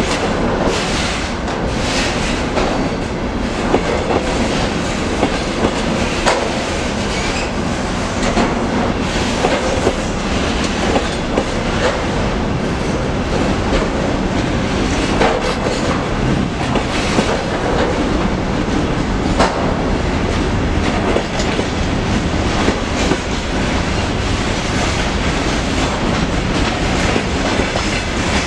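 Container flat wagons of a freight train rolling past: a loud, steady rumble of wheels on rails with frequent, irregular sharp clacks.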